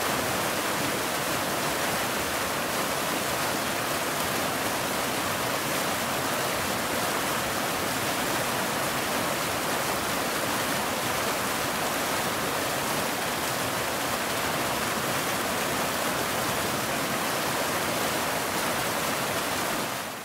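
Waterfall: a steady, even rush of falling water that cuts off abruptly at the very end.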